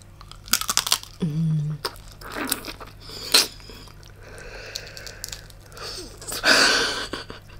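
Close-up eating of giant tiger prawn: moist chewing with sharp crisp crunches. A short hummed 'mm' comes about a second in, and a louder breathy hiss near the end.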